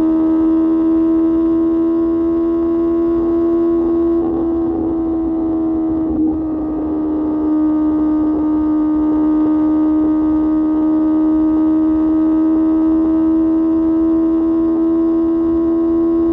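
QJ Motor SRK600's inline-four engine through an SC-Project exhaust, held at steady high revs while riding, a loud even drone that barely changes pitch.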